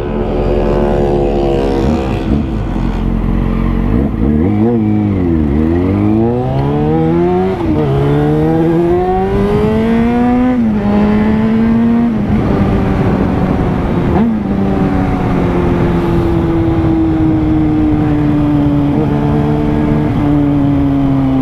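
Yamaha FZ6's 600 cc inline-four engine pulling away and accelerating through the gears: the pitch climbs, drops at each upshift (three times in the first fifteen seconds or so), then settles into a steady cruise with the pitch slowly easing down, over a constant rush of wind noise.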